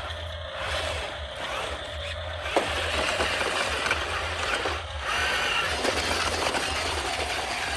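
Small electric motors and plastic gearboxes of remote-control toy construction vehicles whirring and clicking, with a sharp click about two and a half seconds in and a higher motor whine from about halfway.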